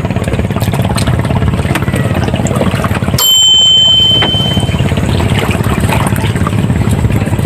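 A small engine running with a rapid, even pulsing drone. About three seconds in, a high steady tone sounds for about a second and a half.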